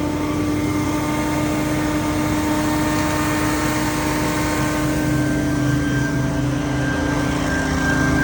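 Engine of outdoor lawn-care power equipment running steadily at high speed: a constant drone over a rushing hiss.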